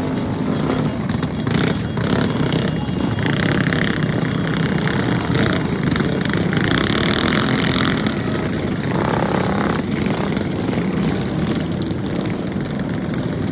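Mini bike's small engine running steadily.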